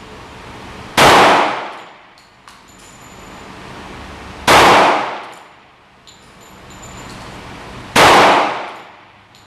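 Three shots from a Glock 30 .45 ACP pistol, about three and a half seconds apart, each ringing out and fading over nearly a second, with a few small clicks between the shots.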